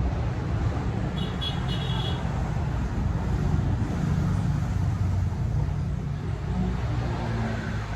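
Motorcycle running on the road: a steady low engine rumble with road and wind noise. A few short high-pitched tones come about a second in.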